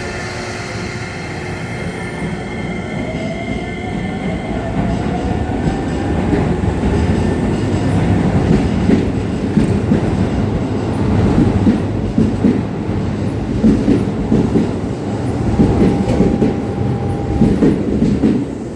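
Keisei electric commuter train running through the station, its wheels clattering over the rail joints and getting louder. A motor whine rises in pitch a few seconds in.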